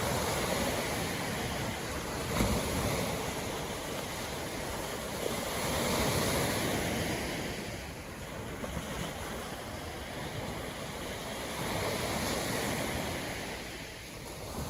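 East Sea surf breaking and washing up the beach, swelling and easing in slow surges, loudest about six seconds in and again about twelve seconds in.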